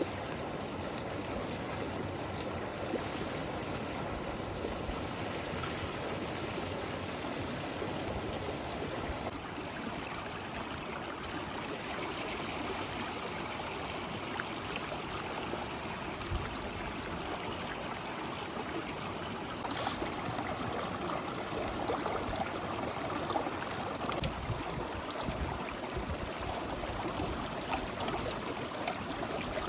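River water flowing in a steady rush. Its character shifts abruptly about ten seconds in and again near twenty seconds.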